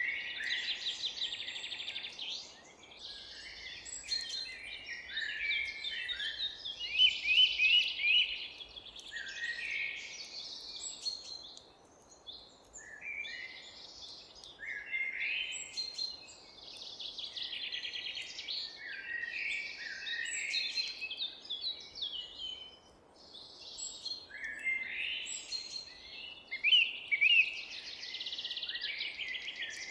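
Several songbirds singing and chirping at once, overlapping high trills and quick chirps, over a faint background hiss.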